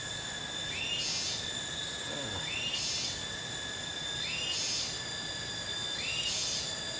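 Cicadas droning steadily, with a call that repeats four times about every 1.7 seconds: a held whistled note that jumps up in pitch at its end, followed by a short hiss.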